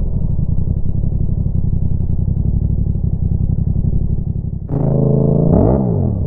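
Yamaha MT-07 parallel-twin engine through a Roadsitalia exhaust with the dB killer removed, running at low revs with a rapid, uneven low throb. About two-thirds of the way through it steps up sharply into a louder revving note that climbs and drops quickly in pitch.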